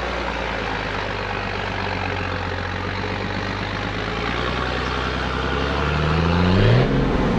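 1983 Mercedes Unimog U1700L's diesel engine labouring at a steady low speed as the truck bogs down climbing through deep soft sand. Near the end the revs rise sharply as it claws its way out.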